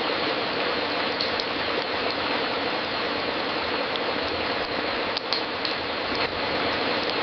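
Crackling fireplace: a steady crackle with occasional sharper pops from the burning wood.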